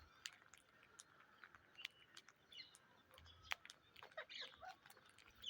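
Indian ringneck parrots making faint short chirps, mixed with many scattered small clicks and taps.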